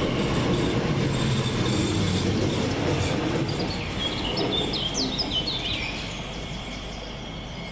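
Class 345 electric multiple unit running past on the rails, its noise slowly fading. Brief high wheel squeals come about four to six seconds in.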